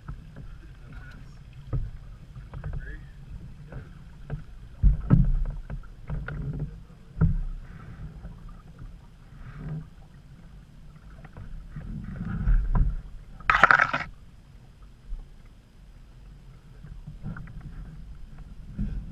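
Canoe being paddled: scattered knocks and thumps of the paddle and hull, with low rumbling. A brief loud splash comes about two-thirds of the way through.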